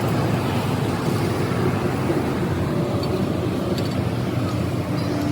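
Steady low rumble of running motor vehicles.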